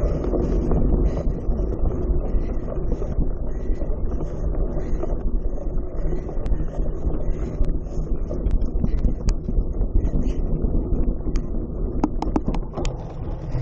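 Wind buffeting the microphone over a steady low rumble, with a quick run of sharp clicks or rattles about twelve seconds in.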